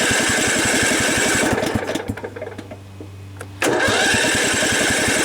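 An old Craftsman riding mower's engine being cranked on its electric starter with the choke on, after sitting unused for a while. The starter spins up with a rising whine and the engine chugs in quick regular pulses. The cranking stops about a second and a half in and the engine sputters down, and a second cranking attempt starts about three and a half seconds in.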